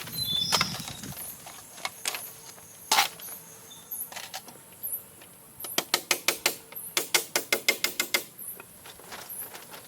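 Sharp knocks or taps. One loud strike comes about three seconds in, then two quick runs of about six knocks a second after the middle.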